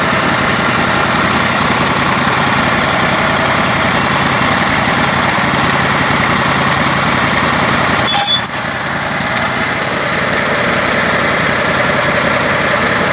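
Modified riding lawn mower engine running steadily at a constant speed. About eight seconds in there is a brief high squeak, and after it the engine runs a little quieter.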